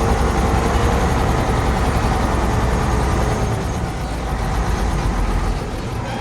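Diesel engine of heavy earthmoving machinery running steadily, a dense low rumble with clatter and noise spread well up the range; it sets in abruptly at the start and eases off slightly after a few seconds.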